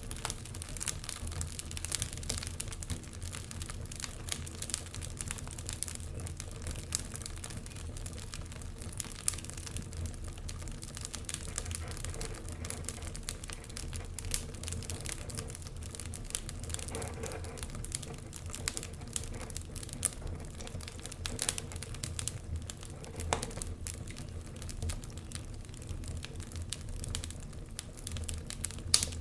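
Wood fire burning in a fireplace, crackling continuously with small irregular pops and an occasional louder snap over a low steady rumble.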